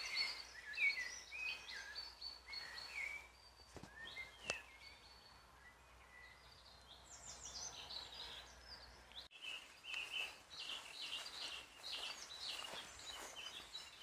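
Several wild birds singing and chirping, short quick notes overlapping from more than one bird, with a couple of soft clicks about four seconds in and a brief break about nine seconds in.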